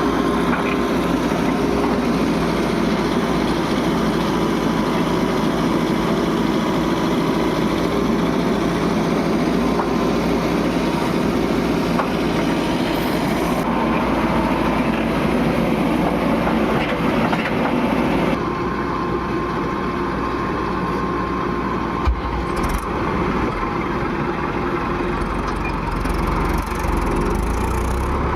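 Diesel engines of a backhoe loader and tractor running steadily at a worksite, the note shifting about two-thirds of the way through, with one sharp knock shortly after.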